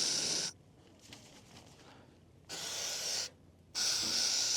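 Aerosol can of wasp spray hissing in three bursts, sprayed into wasp nests: one burst ends about half a second in, a shorter one comes in the middle, and another starts near the end.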